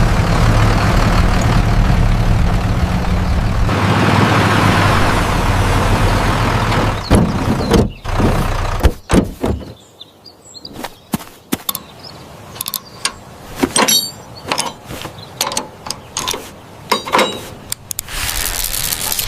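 A vehicle engine sound effect runs steadily for about seven seconds, then gives way to a string of sharp clanks, knocks and clicks.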